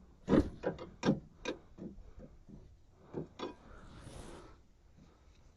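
A string of short, irregular knocks and clunks from the Toyota Corolla's front suspension parts as they are pried and rocked by hand to check for play, with a brief rustling hiss about four seconds in.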